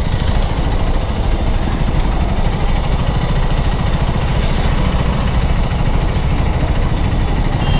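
KTM Duke 390's single-cylinder engine running steadily as the motorcycle is ridden, a dense low rumble.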